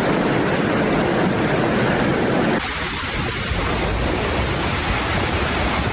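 Rushing floodwater: a loud, steady churning noise. About two and a half seconds in, it cuts to a second, slightly quieter recording of the same kind of rush.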